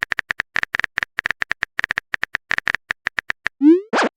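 Rapid keyboard-typing clicks used as a chat sound effect, about seven a second. Near the end they stop, and a short rising tone and a sharp pop follow, like a message-sent notification.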